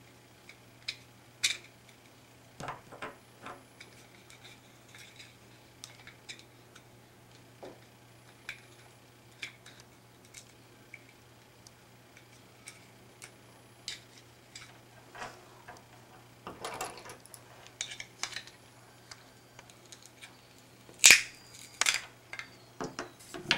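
Plastic housing and parts of a small IR LED light bar handled and pried apart: scattered clicks, taps and light scrapes, with a louder cluster of clicks near the end. A steady low hum runs underneath.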